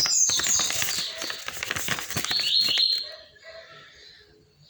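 Paper and plastic packaging rustling and crinkling as it is handled, with short high chirps over it. The sound drops away to quiet from about three seconds in.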